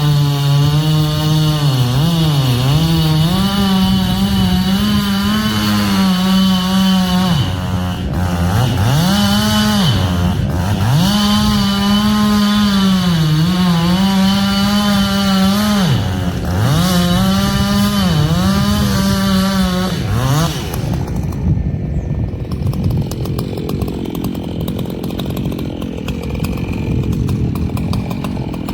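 Echo CS-7310 two-stroke chainsaw cutting through ash wood, its engine note dipping under load and recovering several times. About two-thirds through, the high engine tone drops away to a lower, rougher running sound.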